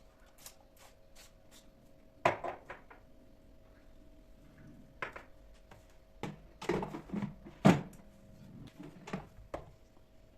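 Kitchen handling sounds: a string of knocks and clatters of objects being picked up and set down, the loudest about two seconds in and near eight seconds. A faint steady hum sits underneath.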